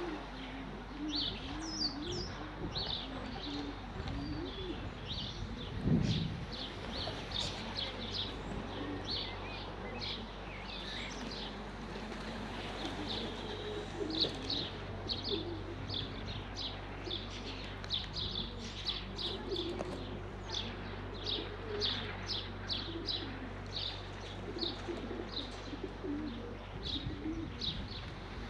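Pigeons cooing again and again in low wavering calls, with rapid high-pitched bird chirping throughout. A brief low thump comes about six seconds in.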